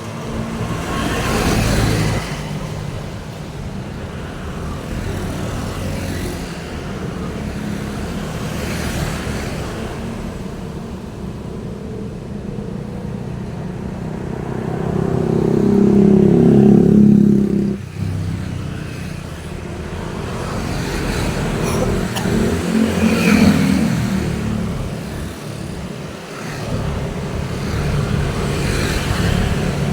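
Road traffic on a busy street: a steady wash of engine and tyre noise as vehicles pass one after another. The loudest engine swells past about halfway through, and another passes a few seconds later.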